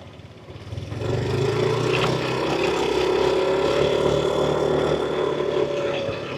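Yamaha NMAX scooter's single-cylinder engine and CVT opening up under throttle, the engine note swelling quickly about a second in, then holding a steady pitch, with a slight rise in the middle. Near the end, it eases off a little.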